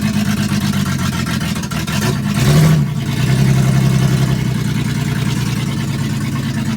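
1984 GMC S15 pickup's engine running, with a brief rev about two and a half seconds in. The owner says it is not running on all cylinders and sounds horrible.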